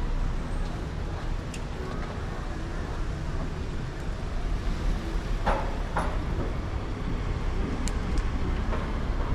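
Wind rumbling on the microphone and tyre noise while riding an e-bike, with two short clicks about five and a half and six seconds in.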